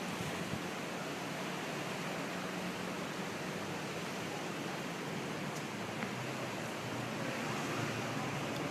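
Wind blowing steadily, an even rushing noise with a faint low hum underneath.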